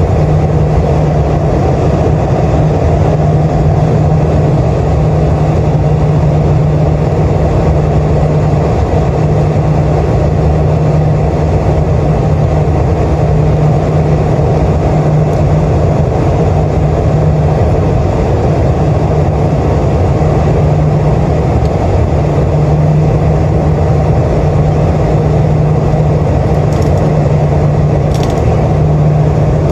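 Boeing 747-400 cabin noise heard from a seat by the wing in flight: a steady rush of jet engine and airflow noise with an even low drone, unchanging throughout.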